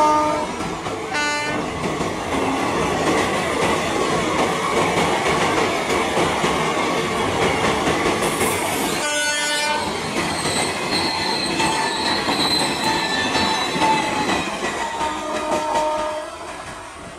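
Two Indian Railways electric express trains passing on parallel tracks: the steady rolling rumble and rattle of passenger coaches running by at speed. Multi-tone locomotive horns blast briefly a second in, again around nine seconds in, and once more near the end. Thin high whines, typical of wheels squealing on the rails, sound in the middle.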